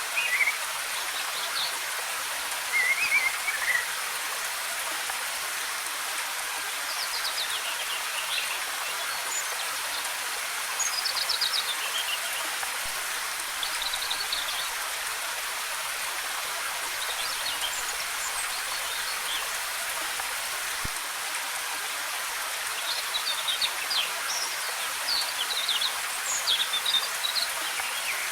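Waterfall's steady rush of cascading water, with small forest birds chirping in short, quick trills on and off over it, more often near the end.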